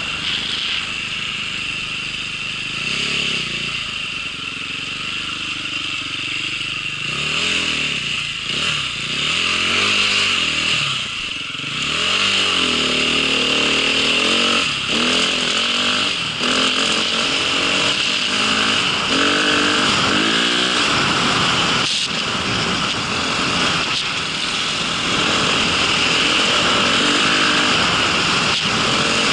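Motorcycle engine running under load while riding, its revs rising and falling again and again, over a steady hiss.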